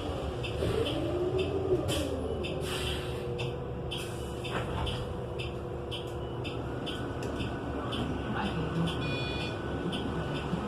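Cabin sound of a New Flyer XN35 transit bus's Cummins Westport L9N natural-gas engine running loud, its pitch dipping and rising in the first couple of seconds and then holding steady. A light regular ticking runs over it, about two to three ticks a second.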